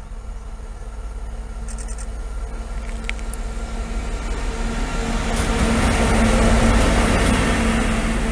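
Class 66 diesel locomotive's EMD two-stroke V12 engine running light along the line, its steady drone and rumble growing louder as it approaches, loudest about six and a half seconds in, then easing slightly.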